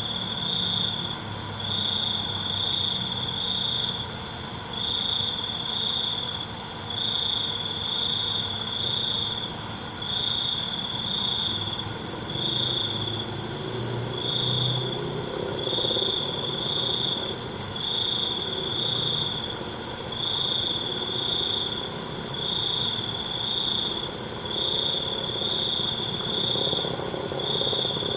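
Night chorus of crickets and other insects: one loud cricket chirps in trains about a second long with short gaps, over a steady high-pitched hum of more insects.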